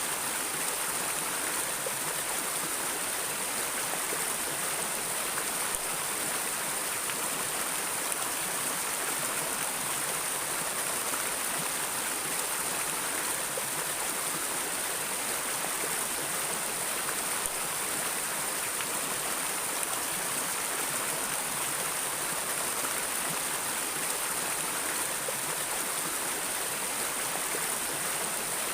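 Stream of water flowing and splashing over rocks: a steady rushing with a hissy top end and no pauses.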